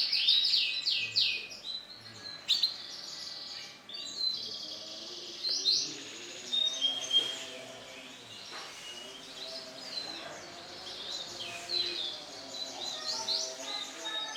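Male lemon canary singing: high, fast trills of rapidly repeated notes in bursts with short breaks, quieter in the middle.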